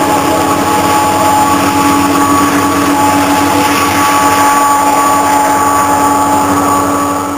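Steady rumble with a few held ringing tones from a BNSF coal train that has just gone by, carried through the rail the camera is braced against, starting to fade near the end.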